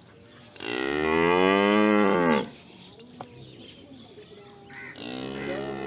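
Friesian cow mooing: one long moo about a second in, its pitch rising then falling, followed by a second, quieter moo near the end.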